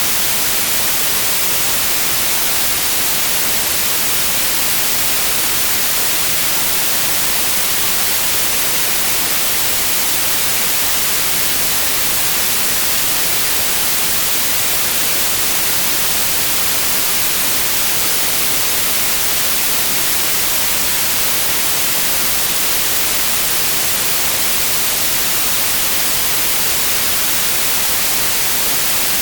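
Steady white noise: a constant, even hiss with no change, strongest in the high treble.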